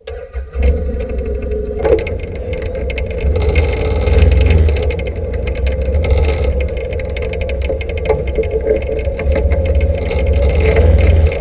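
The V-twin engine of a 2008 Can-Am Outlander 800 Max XT ATV running at low speed, a steady drone over a heavy low rumble. Scattered clicks and knocks run through it, and the sound cuts in suddenly at the start.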